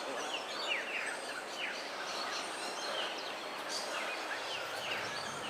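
Many birds calling together: a busy chatter of short, quick chirps that drop in pitch, over a steady background hiss.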